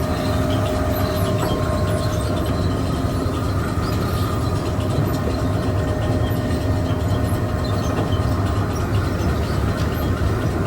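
Steady running noise of grain mill machinery: a heavy low hum with a few faint, steady whining tones over it.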